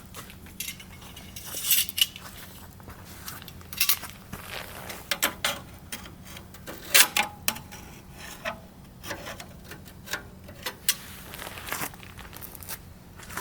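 Firewood burning, crackling with irregular sharp pops, the loudest about seven seconds in.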